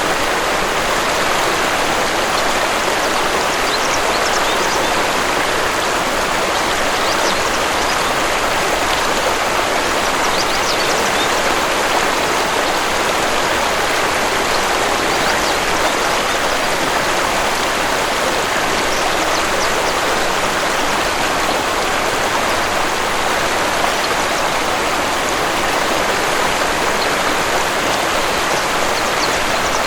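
Waterfall and stream water rushing in a steady, even wash.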